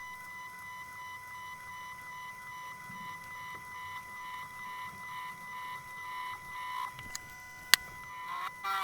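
Milling machine spindle running with a steady high whine while a 1.6 mm drill is fed into an aluminium workpiece, with a single sharp click about three-quarters of the way in.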